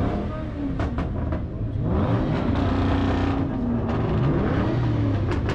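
Several car engines revving together, their pitch repeatedly climbing and falling.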